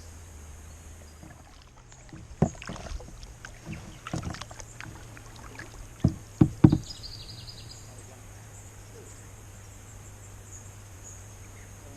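Kayak paddle strokes: a few sharp splashes and knocks, loudest as three in quick succession about six seconds in, over a steady low background with faint high insect chirping.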